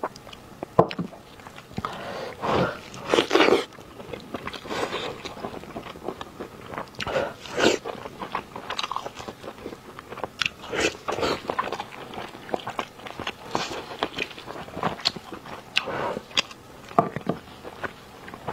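Close-up eating sounds: wet, sticky chewing, biting and lip smacks on red-braised pork knuckle in sauce, coming as irregular clicks and short smacking bursts.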